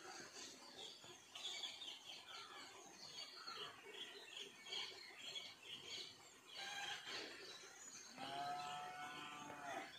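Many birds chirping and twittering faintly, with short high calls coming one after another. About eight seconds in, a longer drawn-out call holds one pitch for nearly two seconds.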